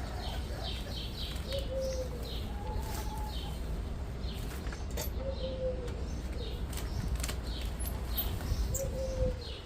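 Backyard birds calling: a short, low call that rises and falls slightly, heard about four times, over many quick high chirps from small birds, with a steady low rumble underneath.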